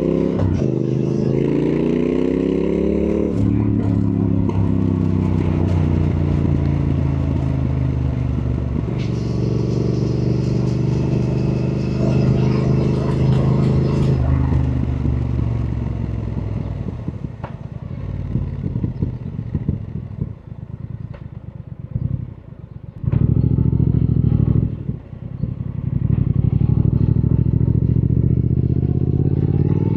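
Triumph Thruxton R's 1200 cc parallel-twin engine under way: it accelerates with rising pitch, drops back at gear changes and holds a steady pull. About halfway through it rolls off the throttle and coasts with a run of sharp clicks, blips once, then accelerates again near the end.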